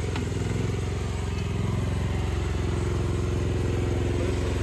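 Mini excavator's engine running steadily at a constant speed.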